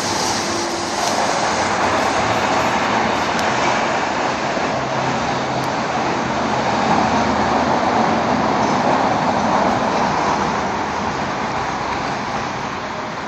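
Potassium nitrate and sugar rocket motor burning on a static test, a loud steady rushing hiss that holds at an even level throughout.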